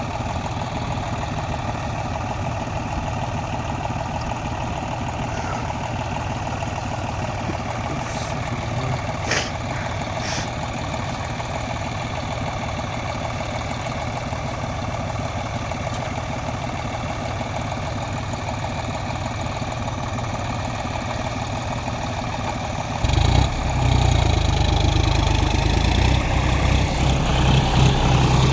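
Tractor engine running steadily at low revs. It grows louder and heavier about five seconds before the end, and the revs begin to rise at the very end.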